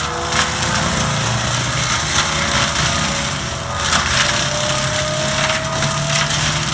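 Forestry mulching head on an ASV RT120F compact track loader, grinding and splintering wood over the steady running of the machine, with scattered cracks and a whine slowly rising in pitch.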